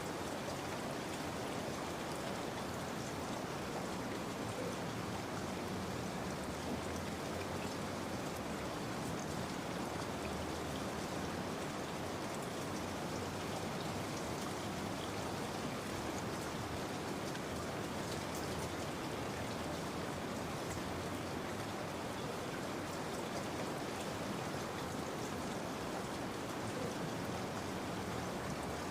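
Steady rain falling, with a fine patter of drops on a surface and no break or change.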